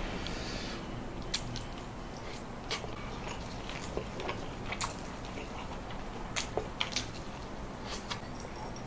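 Close-up eating: scattered crisp bites and chewing clicks, about a dozen short sharp crunches.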